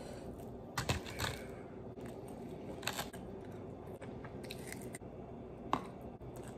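Biting and chewing burnt chicken wings, with a handful of sharp crunches scattered through, the charred skin crackling between the teeth.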